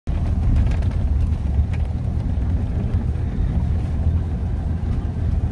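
Off-road vehicle driving: a steady low rumble of engine and running gear, with a few light knocks.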